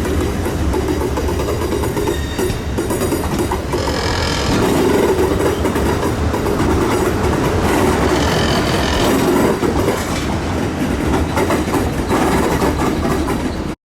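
A train running along the rails, its wheels clattering over the rail joints, cutting off abruptly near the end.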